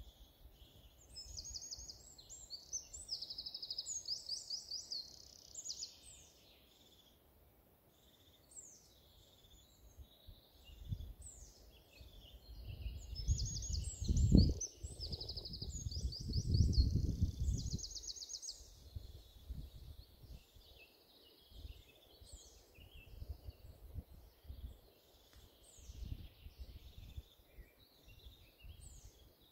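Songbirds singing: high chirps and fast repeated trills, heaviest in the first few seconds and again around the middle. In the middle a low rumbling noise rises and falls, the loudest sound.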